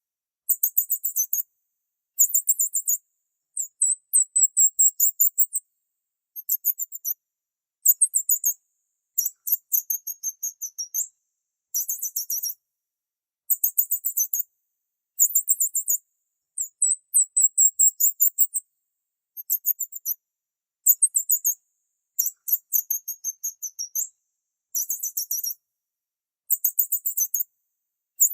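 Small birds chirping: short bursts of rapid, very high-pitched chirps, each burst about a second long with brief silent gaps between them.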